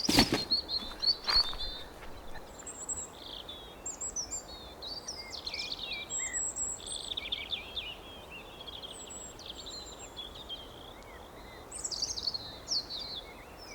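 Several small birds chirping and trilling over a steady outdoor background hiss, with a couple of brief knocks in the first second or two.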